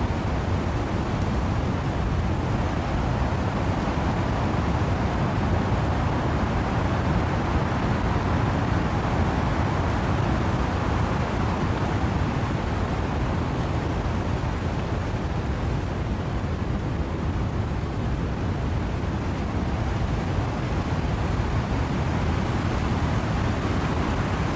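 Wind and rain in trees: a steady rushing noise, heaviest in the low end, rising and falling only slightly.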